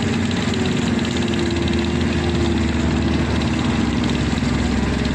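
Diesel engine of heavy construction machinery running steadily at a constant speed.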